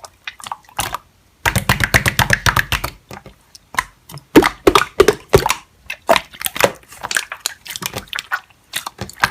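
Slime being pressed and squeezed by hand, giving a run of sharp crackling pops and clicks, densest between about one and a half and three seconds in.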